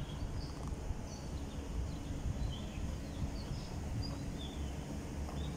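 Small birds chirping in short, scattered calls over a steady low rumble of city background noise.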